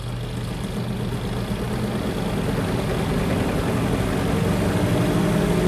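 Spin tub of a Mabe 13 kg twin-tub semi-automatic washing machine on its spin cycle. The motor hums steadily, and a fainter whine climbs in pitch and grows a little louder as the tub speeds up.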